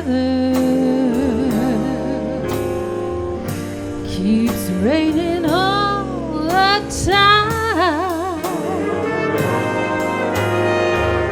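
A swing band plays a slow jazz ballad. A brass lead line with wide vibrato and sliding notes is held over the sustained band and rhythm section.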